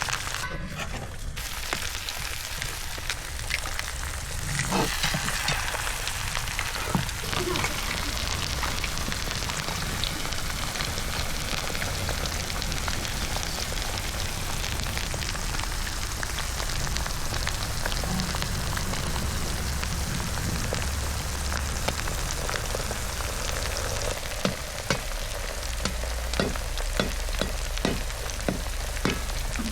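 Food frying: a steady sizzling hiss with scattered pops and crackles, which come more often near the end.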